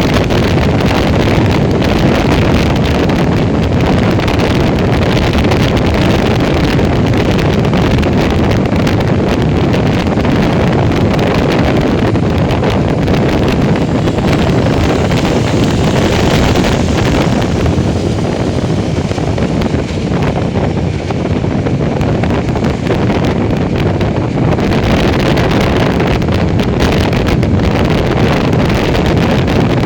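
Wind buffeting the microphone of a moving motorcycle, with the bike's engine and road noise blended underneath in a steady, loud rush. The rush eases a little for a few seconds past the middle.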